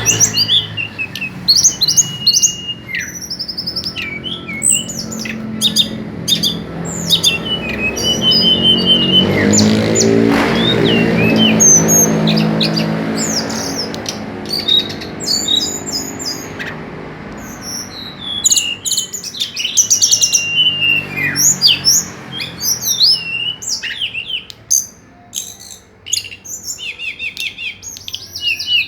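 Songbird singing a rapid, varied run of short chirps, whistles and trills. A low drone swells in the middle and fades out.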